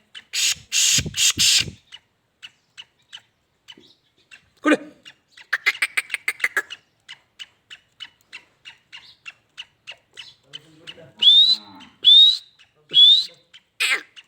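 Black francolin calling: a fast run of sharp clicking notes, then three loud short notes that rise in pitch near the end.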